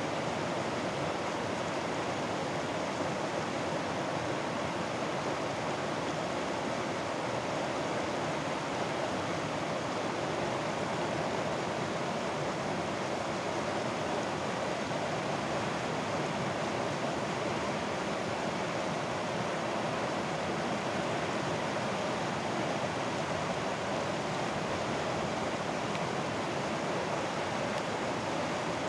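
A mountain stream rushing steadily over rocks, an even, unbroken flow.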